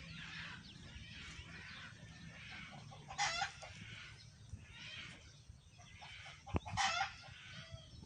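A flock of chickens clucking and calling, with two short, loud calls standing out, one about three seconds in and one near the end.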